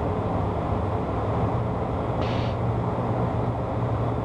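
Steady in-flight cockpit noise of a Beechcraft Premier 1 business jet: airflow and engine drone with a low steady hum. A brief hiss comes about two seconds in.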